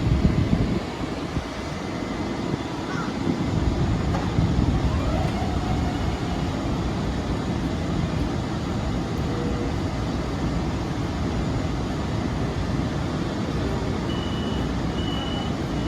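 Steady, loud low rumble of a train running through the station, louder in the first second. Near the end a high-pitched beeping starts in short repeated pulses.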